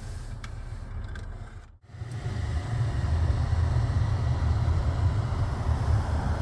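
Lexus GS300 engine running with a steady low rumble. The sound drops out briefly about two seconds in, then comes back louder.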